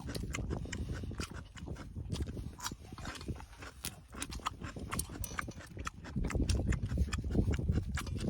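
Close-up chewing and crunching of fresh dandelion greens, a steady run of wet, crisp mouth clicks.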